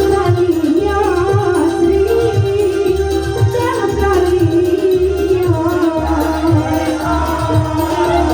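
Live Banyuwangi kuntulan music: ornamented singing over a held melody line and a steady, regular drum beat.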